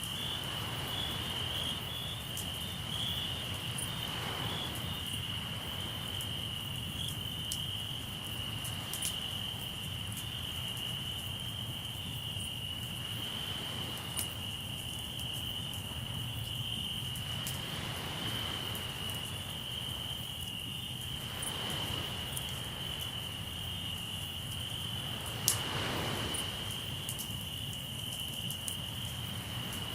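Crickets chirping in a steady high trill, with a campfire crackling in scattered small pops and one sharp pop near the end. Sea waves wash in every four or five seconds over a low rumble.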